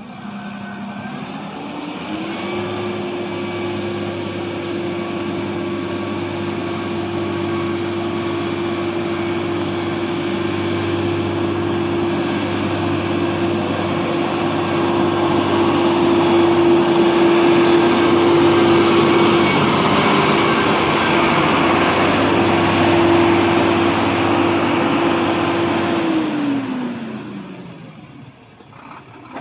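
Diesel engine of a HOWO tractor truck running up from idle about two seconds in, holding at a steady high speed for over twenty seconds, then winding back down near the end.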